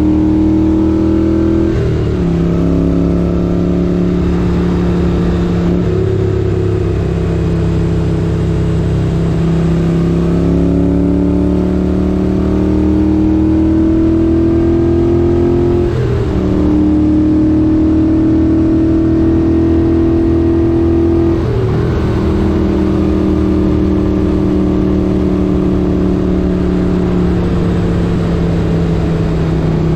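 1978 Moto Guzzi 850 Le Mans's air-cooled V-twin engine running under way, its pitch climbing slowly under throttle. The pitch breaks and jumps four times with gear changes, then drifts gently down near the end.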